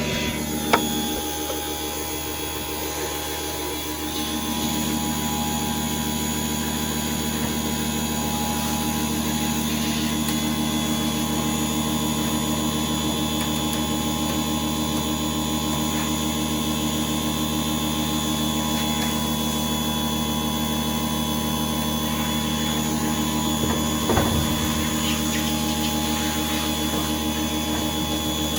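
Steady mechanical hum of a running motor, with a sharp click about a second in and a short knock around 24 seconds, typical of tools at work on the washing machine.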